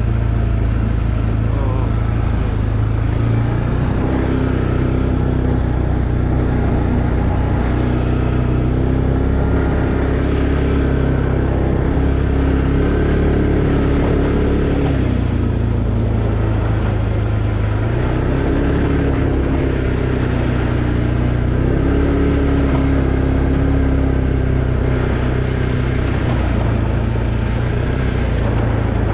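A 2020 Arctic Cat Alterra 700 ATV's single-cylinder four-stroke engine running under way. Its note dips twice and climbs again as the throttle eases and opens.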